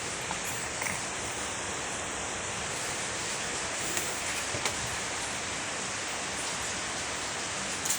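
Heavy rain pouring steadily, an even hiss, with a few faint brief taps.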